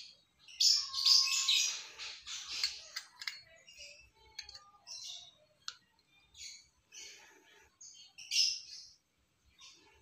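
Small birds chirping, a run of short high chirps at irregular intervals, loudest about a second in and again near the end.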